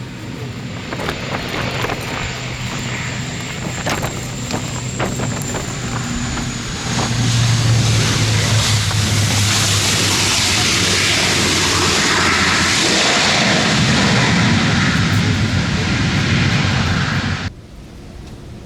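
Jet airliner passing close on its landing approach in strong wind. A high engine whine sinks slightly in pitch, then the loud rush of the jet engines builds about seven seconds in, with wind on the microphone. The sound cuts off abruptly about a second before the end.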